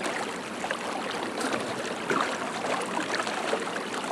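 Steady rush of fast-flowing river water running high in flood, with scattered small splashes and ticks.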